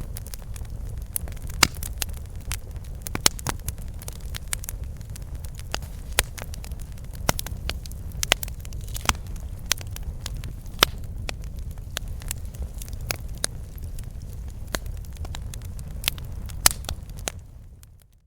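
Campfire burning: wood crackling and popping in irregular sharp snaps over a low steady rumble. The sound fades out to silence at the very end.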